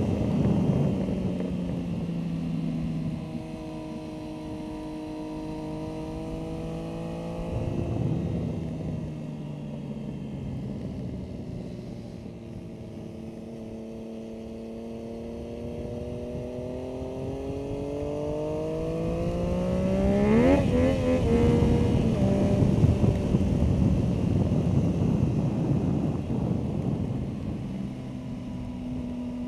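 Motorcycle engine at track speed. Its note falls slowly as it slows for turns, then climbs steadily under acceleration to a sharp rise about two-thirds of the way through, where it is loudest, with wind rush underneath.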